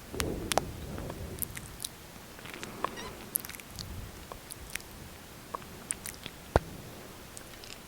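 Close-miked lip sounds of lipstick or gloss on the lips: scattered wet clicks and smacks at irregular intervals, the sharpest about six and a half seconds in, with a soft low rustle near the start.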